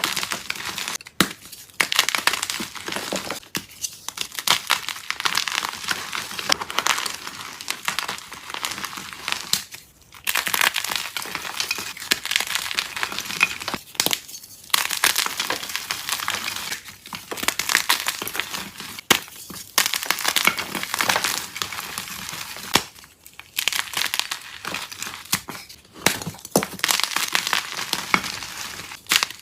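Soft, crunchy dyed chalk being crushed and crumbled: a dense, crackling crunch that comes in runs of a few seconds with brief pauses between them.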